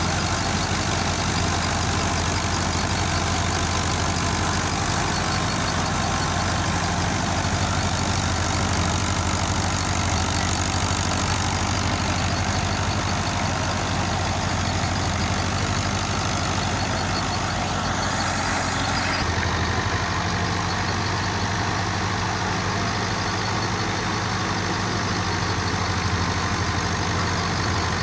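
Tractor engine running steadily, its note shifting slightly about two-thirds of the way through.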